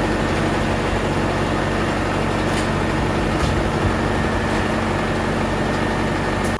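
A loud, steady machine noise with a low hum under it. It starts and cuts off abruptly.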